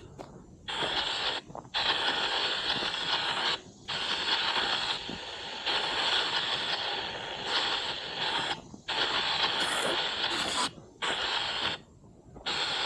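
Spirit box sweeping through radio frequencies: bursts of hissing static, each about one to two seconds long, cutting off sharply with short gaps between them.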